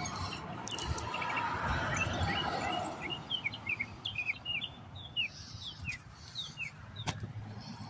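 Small birds chirping: a quick series of short, falling chirps over a steady background rush, with a single sharp tap near the end.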